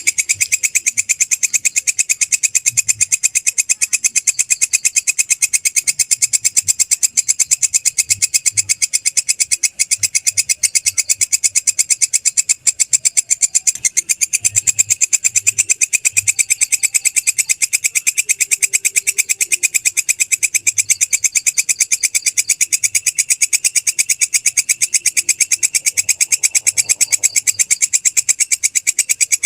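Walang kecek, a katydid, calling: a fast, perfectly even train of high, rasping pulses that keeps going without a break.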